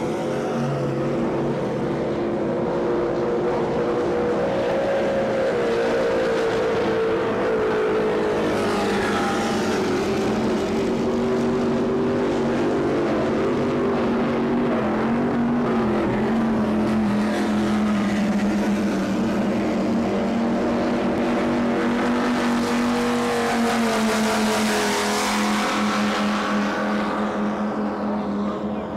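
Offshore racing powerboat engines running hard at racing speed, their pitch slowly rising and falling, with boats passing by twice, about a third of the way in and near the end.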